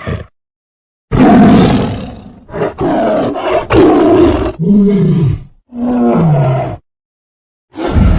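Tiger roaring and growling in about five loud calls in a row, the last two falling in pitch. Near the end a different steady, droning sound begins.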